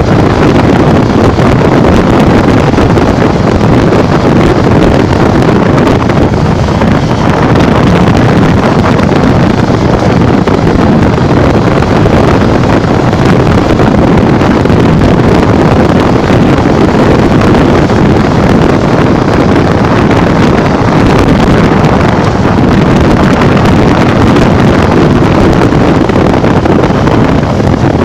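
Steady, loud wind rush and buffeting on the microphone of a Honda Bros 150 motorcycle riding at speed.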